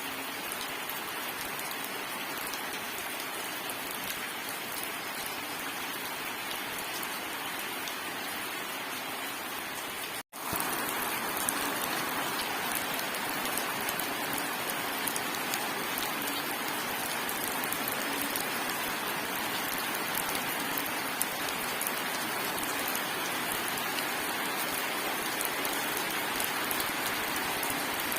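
Steady rain falling, an even hiss of drops. About ten seconds in it drops out for a split second, then comes back slightly louder.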